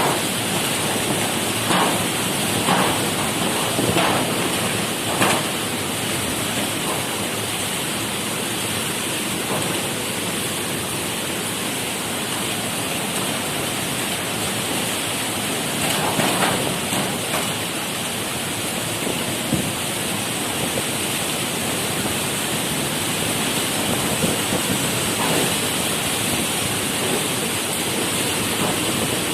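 Steady rushing noise of tropical-storm rain and wind, with a few short louder spatters in the first few seconds and again about halfway through.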